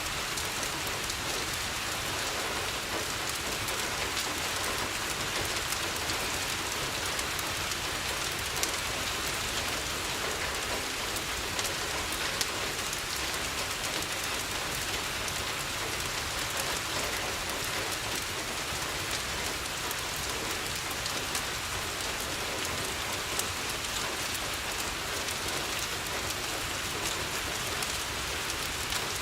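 Steady rain falling on a window, with a few sharp clicks scattered through it, the clearest about nine and twelve seconds in.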